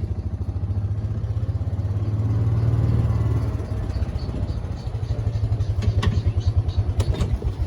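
A small engine running steadily with a fast, even low pulse, with a few faint clicks near the end.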